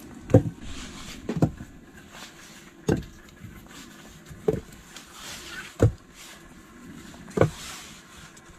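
Six heavy, dull thuds of repeated blows, about one every second and a half, over a faint steady hiss.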